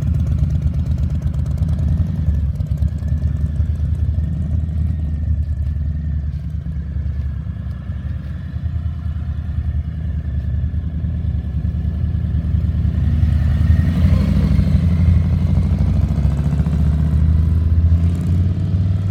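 Harley-Davidson V-twin motorcycle engine running under way. The engine note rises and gets louder as it accelerates about two-thirds of the way through.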